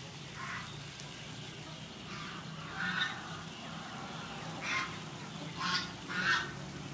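Birds calling: about six short calls at irregular intervals, over a low steady hum.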